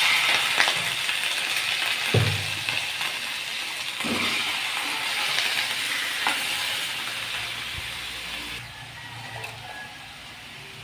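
Freshly added raw chicken sizzling in hot oil in a large metal wok. A wooden spatula knocks and scrapes against the pan about four times as it stirs. The sizzle dies down near the end.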